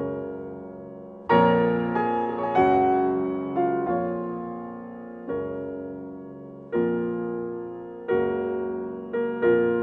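Slow piano music: sustained chords struck about once a second or two, each dying away before the next.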